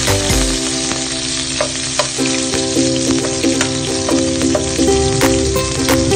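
Sliced red onion sizzling and frying in hot oil in a stainless steel pot, with a steady crackling hiss. A metal spatula stirs it, scraping and clicking against the pot a few times.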